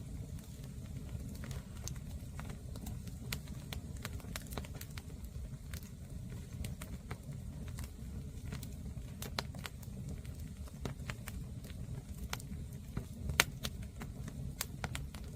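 Wood campfire burning: a low steady rush of flames with frequent sharp crackles and pops, one louder pop about thirteen seconds in.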